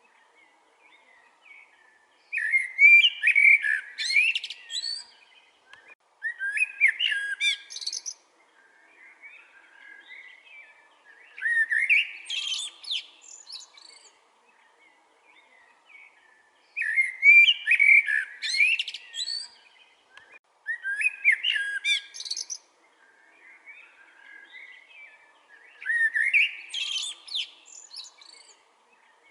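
Common blackbird singing: six loud phrases of about two seconds each, a few seconds apart, with fainter chirps in the pauses between.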